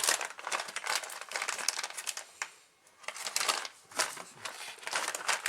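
Plastic packaging crinkling and rustling as parts are handled, in irregular crackly bursts with a short lull about halfway through.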